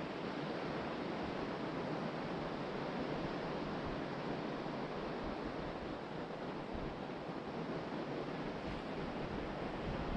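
Ocean surf washing onto the beach as a steady, even rush of noise.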